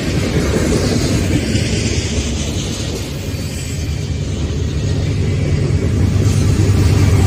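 Freight train rolling past: steel wheels rumbling and clattering over the rails as open-top freight cars go by. Toward the end the diesel engine of CSX CM44AC mid-train distributed-power locomotive 7214 grows louder as it approaches.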